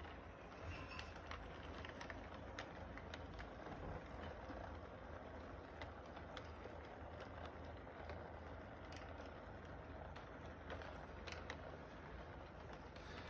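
Model train running on its track: a steady low hum with scattered light clicks, over steady background noise.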